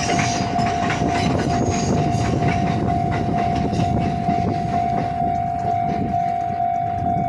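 A JR 313 series electric train running through a level crossing, its wheels rumbling and clacking over the rail joints. The crossing's warning bell rings steadily on one pulsing tone, stopping right at the end.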